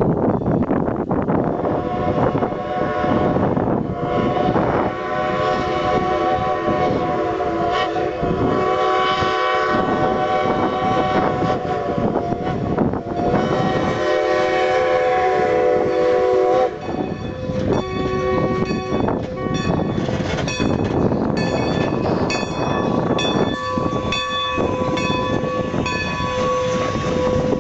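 Strasburg Rail Road 2-10-0 steam locomotive No. 90 with its train: its whistle sounds a long chord of several notes that cuts off sharply after about fifteen seconds. This is followed by intermittent, broken high tones over the steady noise of the passing train.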